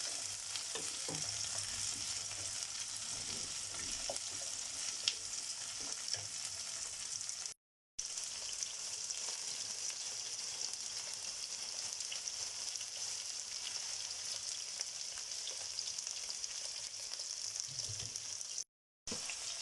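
Chopped onion, garlic and bell peppers sizzling as they sauté in oil in a pan, a steady high hiss with a few light stirring knocks in the first few seconds. The sound cuts out completely twice, briefly.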